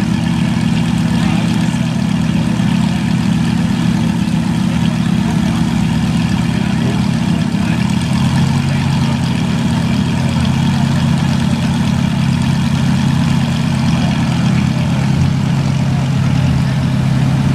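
Exotic sports car engine idling steadily, its note shifting slightly about seven seconds in.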